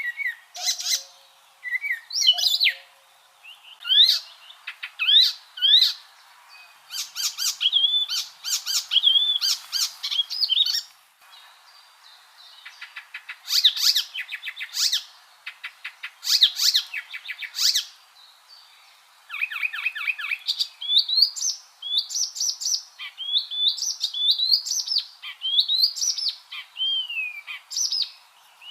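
Icterine warbler singing: a long, varied song of quick upward-sweeping whistles, fast chattering runs of repeated notes and buzzy trills, broken by short pauses between phrases.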